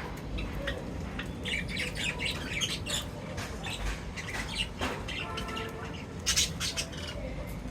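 Several birds chirping and squawking at a feeding spot: quick clusters of short high chirps, and about five seconds in, one harsher squawk-like call.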